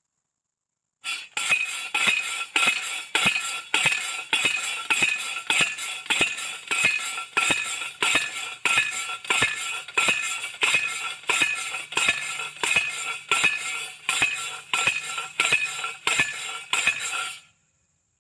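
Steel T-post being pounded into hard ground with a manual post driver: a steady run of ringing metal clangs, about one and a half strikes a second, some two dozen in all. The many strikes are a sign of how hard and dry the ground is.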